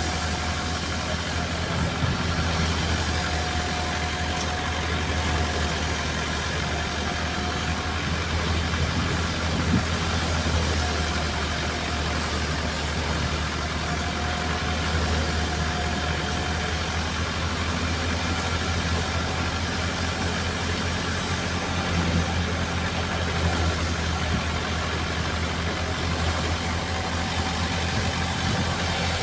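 Tractor engine running steadily while driving a wheat thresher: a continuous low mechanical hum with a faint whine that comes and goes.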